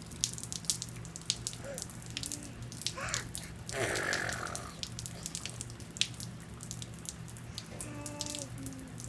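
Rain dripping and pattering: irregular drops splashing close by, over a steady low hum. A brief louder rush about four seconds in, and a child's short voiced sounds near the end.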